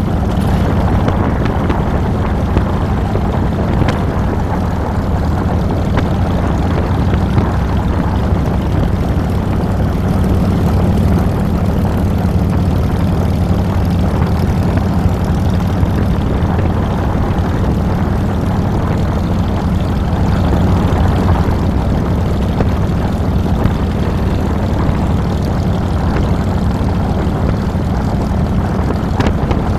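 Harley-Davidson Fat Boy's air-cooled V-twin engine running steadily on the ride, picked up close by a handlebar-mounted camera, a low drone with no change in pitch or loudness.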